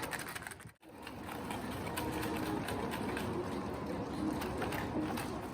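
Ice and coarse salt rattling fast and steadily inside a container shaken hard by hand to make strawberry ice cream, with a brief drop to silence just under a second in.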